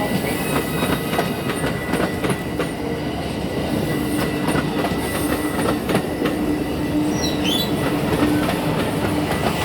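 Amtrak Hiawatha passenger train passing close by, its wheels clacking rapidly over rail joints above a steady rumble and low hum, with a brief high squeal about seven seconds in.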